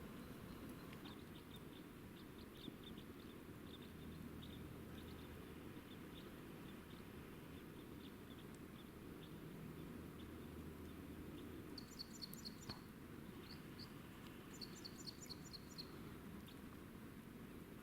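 Faint quiet woodland background with a small bird calling twice, each call a quick run of short high notes, about two thirds of the way in and again shortly after; light faint ticks are scattered through the first half.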